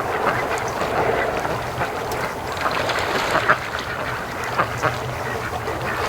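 A flock of domestic ducks quacking and chattering together, many calls overlapping.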